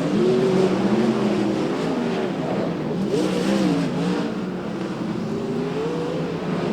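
Engines of several dirt track race cars running together, their pitch rising and falling continuously.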